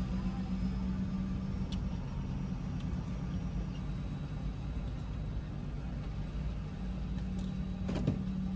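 Steady low hum of a car idling, heard from inside the cabin, with a short sharp click near the end.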